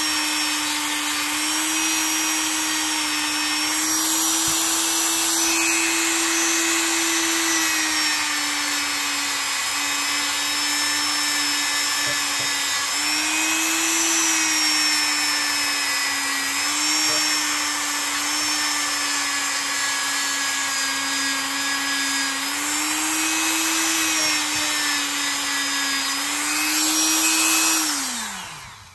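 Dremel rotary tool running steadily while buffing paste wax off a pocketknife, its pitch rising and dipping a little. Near the end it is switched off and spins down.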